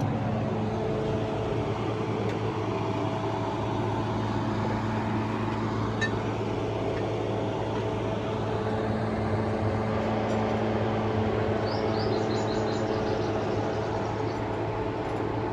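A motor running steadily, a low even hum with a constant pitch. A brief run of high chirps comes near the end.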